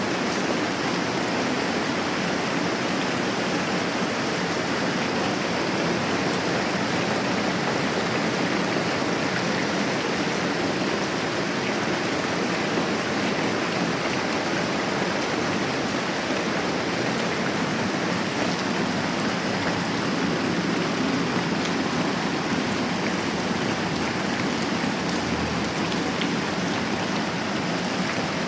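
Moderate rain falling steadily, an even unbroken hiss of many drops.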